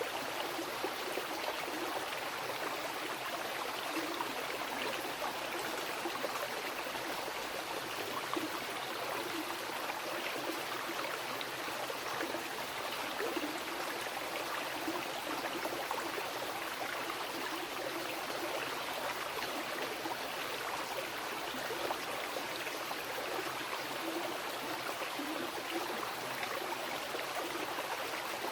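Mountain river rushing and splashing over rocks, a steady unbroken wash of water noise.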